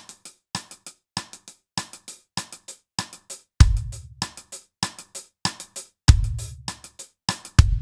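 Drum kit groove: sidestick clicks on the quarter notes and hi-hat strokes in groups of three, with a few deep bass drum hits in the second half.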